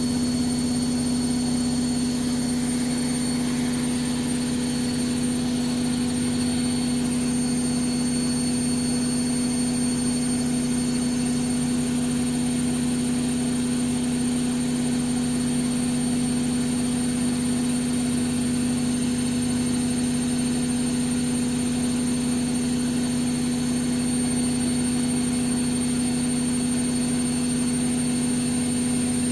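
Vestel CM8710 washing machine on its final spin, the drum and motor running at a steady speed with a constant loud hum.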